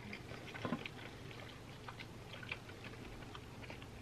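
Faint chewing of pizza: soft, wet mouth clicks at irregular intervals, slightly louder just under a second in.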